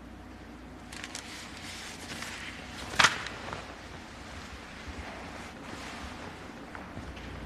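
A single sharp crack about three seconds in, over faint rustling and scattered small clicks of movement.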